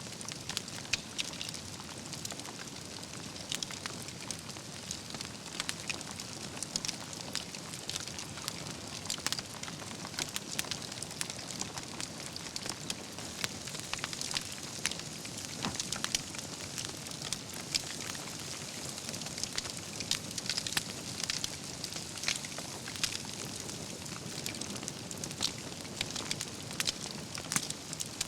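Wood fire burning, with a steady hiss and frequent sharp crackles and pops from the logs.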